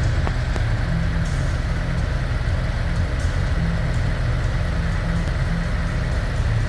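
Harley-Davidson Road Glide's V-twin engine idling steadily.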